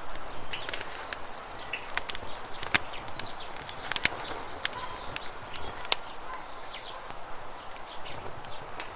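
Campfire crackling with sharp, irregular pops over the steady rush of flowing river water, with a few short bird chirps.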